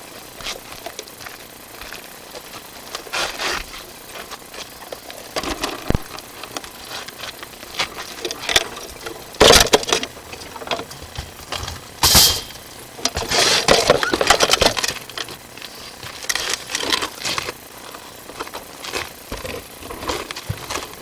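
Drain inspection camera's push cable being fed through the pipe: irregular clicks, knocks and scraping of the cable and camera head, with louder scraping stretches about halfway through.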